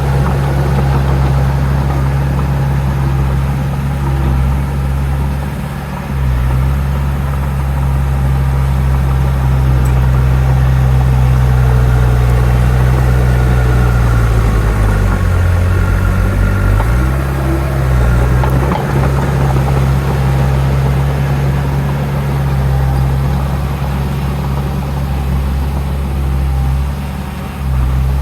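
Heavy diesel engine of earthmoving machinery running steadily with a deep note, the pitch dropping briefly a little past halfway as the load changes, then recovering.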